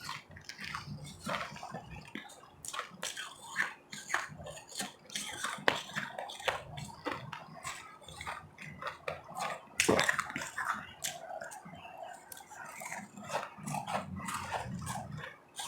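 Ice being crunched and chewed close to the microphone, a dense run of sharp, irregular crackles and snaps, with one louder crunch about ten seconds in.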